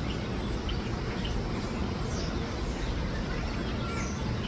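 Small birds chirping, many short high calls, some sliding down in pitch, over a steady low background rumble.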